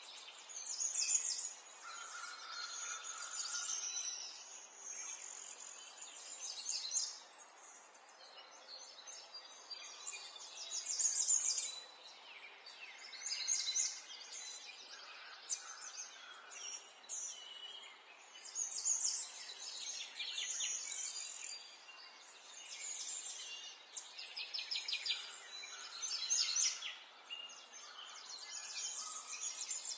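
Several birds singing and calling over one another in a continuous chorus, with repeated fast, high trills and chirps.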